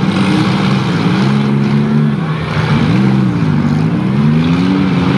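Several small demolition derby cars' engines revving together as the cars pull away and manoeuvre, their pitch repeatedly rising and falling.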